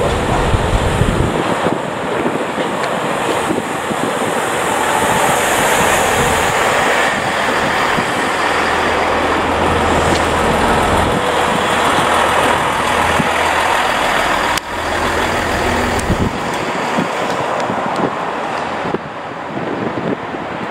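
A Class 165/166 Networker Turbo diesel multiple unit running past along the platform: a steady rushing of wheels on rail with the diesel engines humming low, the hum strongest in the middle as the coaches go by. The noise drops off shortly before the end.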